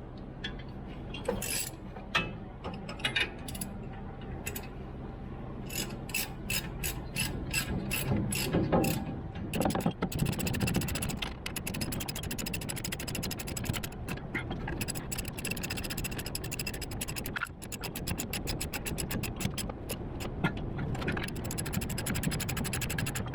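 Ratchet wrench clicking as a bolt is turned: scattered clicks and metal clinks at first, then long runs of fast, even ratcheting.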